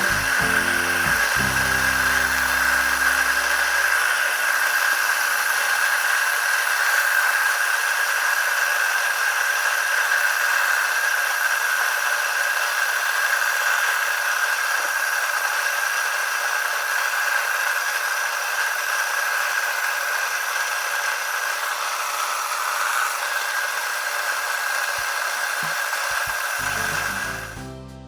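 Nutrimill Harvest electric stone grain mill running steadily as it grinds a mix of wheat berries into flour: a loud, even high-pitched whine over a hiss. The motor shuts off about a second before the end.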